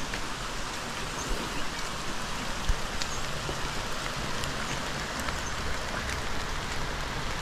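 Steady rain falling on wet ground, leaves and pavement: an even hiss dotted with occasional sharp ticks of drops striking close by.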